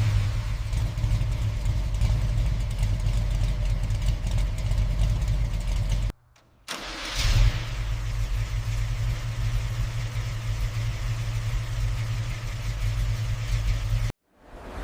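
Car engine idling steadily. It cuts off abruptly about six seconds in; a moment later it comes back with a short surge, like a start or a blip of throttle, and settles to idle again, then cuts off once more near the end.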